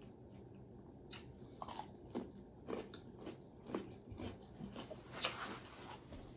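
A person chewing and biting corn on the cob: irregular crisp crunches and wet mouth sounds, the loudest crunch about five seconds in.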